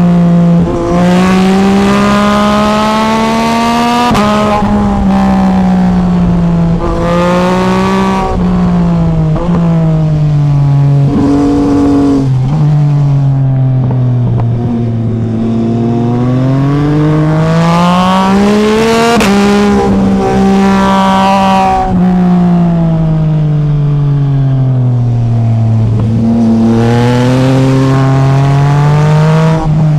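Yamaha MT-09's inline three-cylinder engine under way. It revs up through the gears with a sudden drop in pitch at each upshift, then repeatedly eases off and pulls again, the pitch sinking and climbing in long sweeps.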